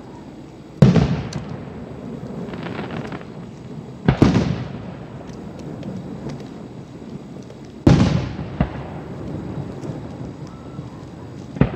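Aerial fireworks shells bursting: four booms spaced about four seconds apart, each followed by echoing that dies away, with a smaller pop after the third.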